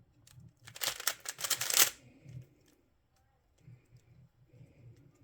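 Plastic puzzle cube being turned fast: a quick flurry of clicking, clacking turns about a second in, then softer scattered clicks as the cube is handled.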